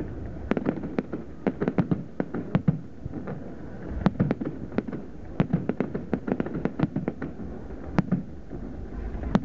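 Aerial fireworks exploding in quick, irregular succession: dozens of sharp bangs with no pause.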